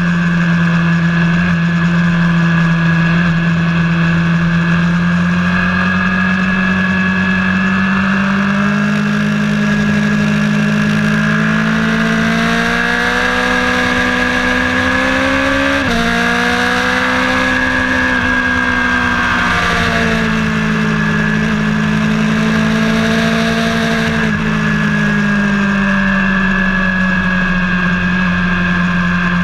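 A vehicle engine running hard during track laps, its pitch slowly climbing and falling, with a sudden drop in pitch about 16 seconds in, like a gear change.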